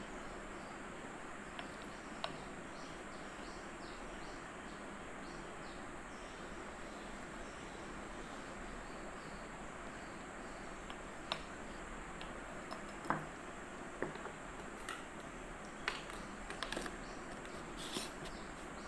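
Steady background hiss with a few light clicks and knocks scattered through the second half, like small objects being handled.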